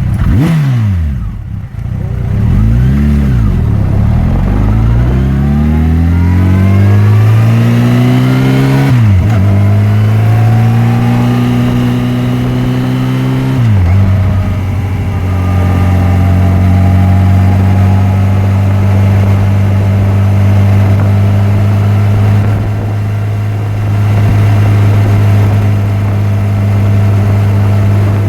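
Yamaha FJR1300's inline-four engine on the move. It slows at first, revs briefly, then accelerates with the pitch climbing, dropping at upshifts about nine seconds in and again near halfway, then holds steady at cruising speed.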